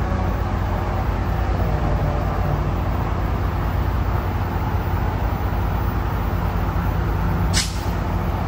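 Train running close by: a steady low rumble and the drone of its diesel locomotive engine, with a short sharp burst of air hiss near the end.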